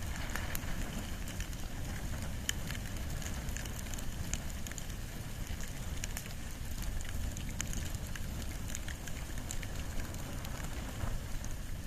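Wood and bamboo burning in an open fire: a steady low rumble of flames with scattered sharp crackles and pops.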